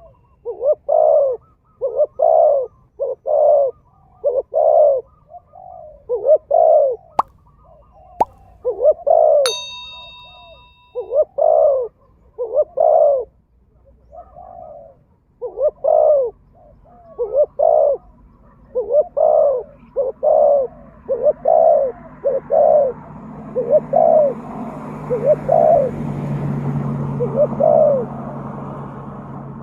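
Pigeons or doves cooing over and over in short, soft, arched coos. A single ringing ping comes about nine seconds in, and a background rushing noise with a low hum swells in the second half.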